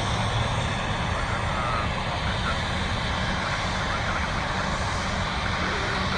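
Jet airliner engines running with a steady, even roar and deep rumble.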